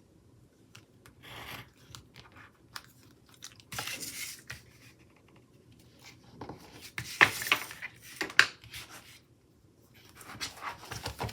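Stickers being peeled from a sheet and pressed onto planner paper: short crinkly rustles with scattered sharp clicks and taps, busiest a few seconds in and again past the middle.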